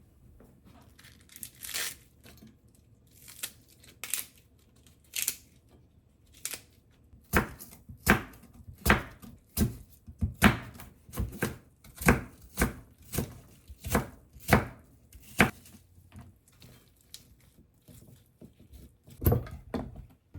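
Knife chopping food on a cutting board: about a dozen firm, evenly paced cuts at roughly one and a half a second, then one or two more near the end. The chopping is preceded by a few lighter brushing strokes.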